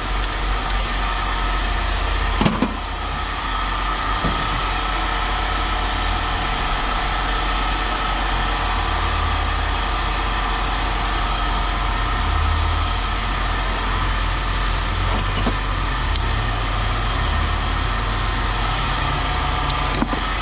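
A steady motor or engine running in the background, with one sharp knock about two and a half seconds in and a fainter one later.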